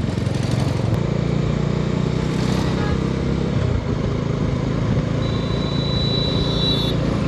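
Bajaj Dominar 250's single-cylinder engine running steadily while riding on the road. A brief high-pitched steady tone sounds for under two seconds near the end.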